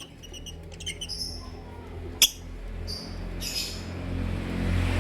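Lovebirds chirping in short, high, clipped calls, several notes in quick groups. A sharp click comes a little over two seconds in, and a low rumble builds near the end.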